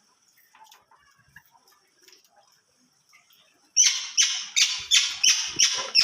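Faint high chirping from caged pet birds, then about two-thirds of the way in one bird starts a loud run of short, repeated calls, roughly three a second.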